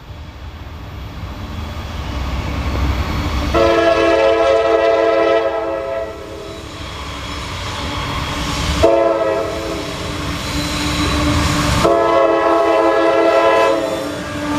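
Diesel locomotives of a CSX freight train rumbling closer while the lead locomotive sounds its air horn three times. The first blast lasts a couple of seconds, the second is shorter, and the third is held longer near the end.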